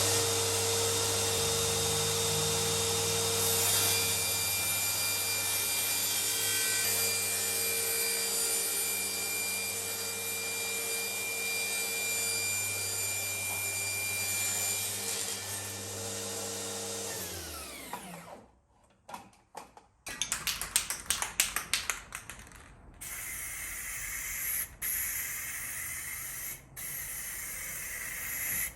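A power tool's motor spins up, runs at a steady pitch for about seventeen seconds and winds down; after a brief pause come a run of short, irregular tool noises.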